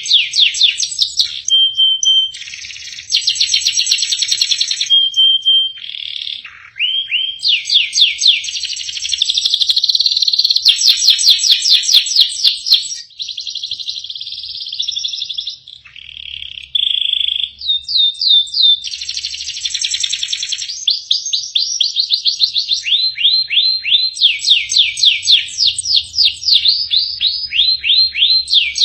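Domestic canary singing a long, varied song without a break, phrase after phrase. It runs from fast trills of repeated rising notes into buzzy rolls and short held whistles.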